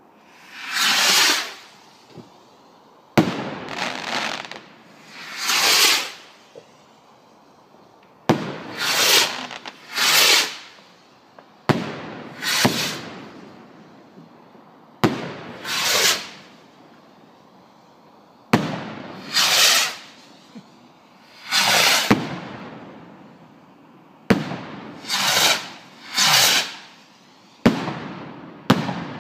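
Small firework rockets fired one after another from a homemade launcher: about a dozen rushing hisses of a second or so each, many set off by a sharp crack.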